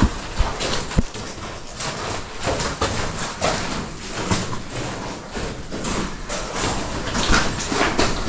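Irregular footsteps and knocks of boots and gear on rock, uneven and clattering.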